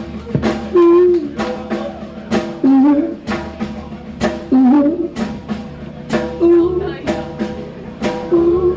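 Live rock band playing a passage without lyrics: a drum kit hitting hard about once a second over bass, guitar and a wavering melodic line.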